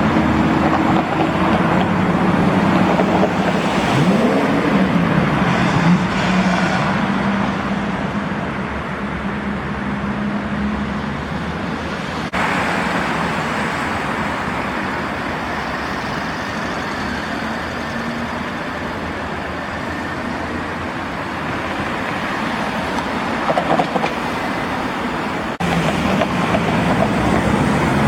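Classic cars driving by in street traffic, engines running over steady road noise, with one engine note rising briefly about four seconds in.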